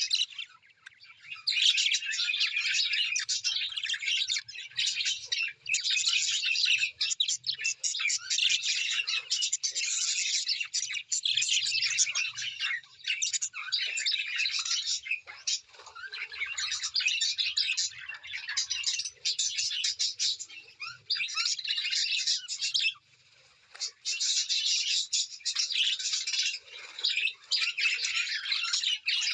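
Small birds chirping and chattering in a dense, continuous stream of quick high calls, with a short lull about a second in and another a little over halfway through.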